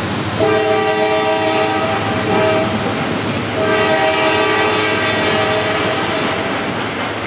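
A freight train of autorack cars rolls past with steady wheel-and-rail noise, while a locomotive air horn sounds two long blasts, each a chord of several notes. The first blast starts about half a second in and the second about three and a half seconds in.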